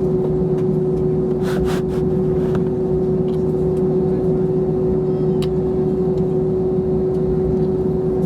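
Steady cabin drone of an Airbus A321 on the ground before takeoff: a constant hum with one clear steady tone over a low rumble, and a few faint clicks a little after a second in.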